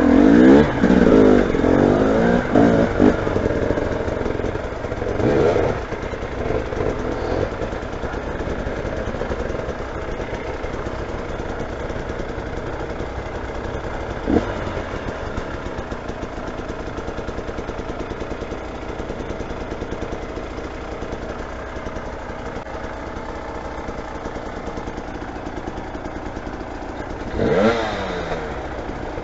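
Motorcycle engine revved several times, then idling steadily, with a single short knock about halfway through. It is revved up and back down once more near the end.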